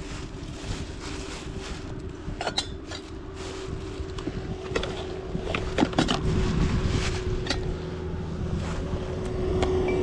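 Wind buffeting the microphone with a steady low hum, and scattered clinks and knocks of gear being handled, densest about two and a half and six seconds in.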